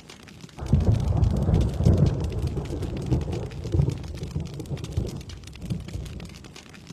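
A thunder clap rolls over steady rain. The low rumble starts suddenly about half a second in, swells with several peaks, and dies away over about five seconds, while the rain's hiss carries on underneath.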